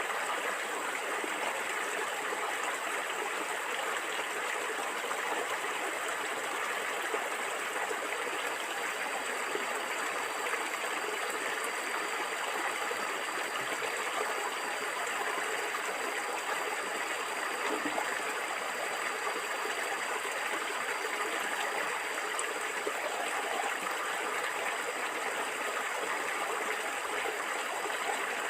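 A stream of water flowing and gurgling steadily, an even rush with no breaks. A faint, thin high tone sits above it from about a third of the way in.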